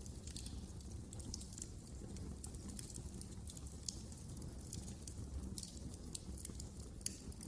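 Fire in a fireplace crackling: many irregular sharp snaps and pops over a steady low rumble of the flames.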